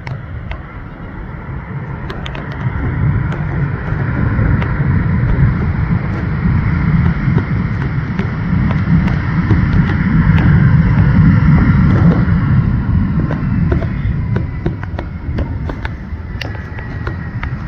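Jet airliner engines rumbling with a faint high whine, the noise building to a peak about ten seconds in and then easing off.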